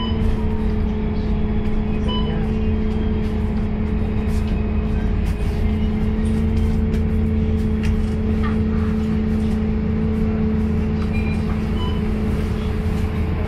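Scania K230UB city bus heard from inside the cabin, its five-cylinder 9-litre diesel running at a steady speed with a low drone and a steady whine. Faint rattles from the bus body tick through it.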